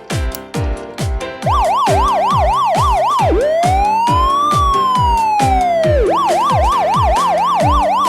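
Emergency-vehicle siren over upbeat background music with a steady drum beat. The siren comes in about a second and a half in with a fast yelp of about three rises a second. Near the middle it switches to one slow wail that rises and falls, then returns to the fast yelp.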